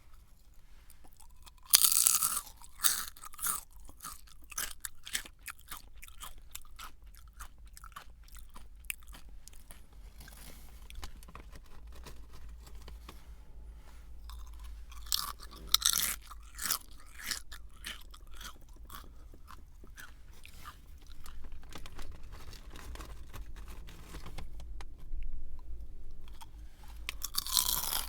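A person biting and chewing a crunchy snack, with loud crunches at each bite (about two seconds in, around the middle, and near the end) and steady crackling chewing in between.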